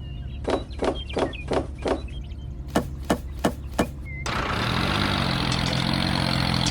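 A run of sharp knocks, about three a second, like chopping or hammering strikes, with three louder blows near the middle, over a low steady hum. About four seconds in, the knocks stop and a steady engine-like motor sound cuts in abruptly.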